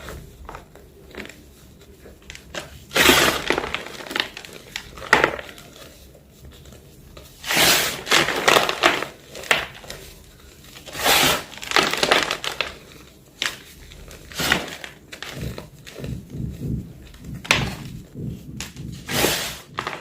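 Plain white gym chalk being crushed, crunching and crumbling in irregular bursts of crackly snapping with short pauses between them.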